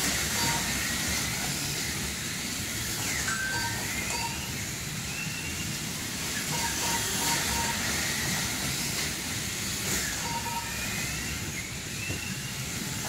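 Several slot cars racing on a track: their small electric motors whine and the running noise rises and falls in pitch as the cars speed up and slow down. Short electronic beeps sound in small groups several times.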